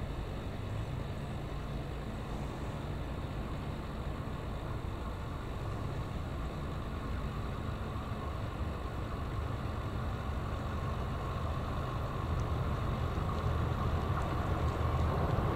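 An engine running low and steady, growing louder over the last few seconds.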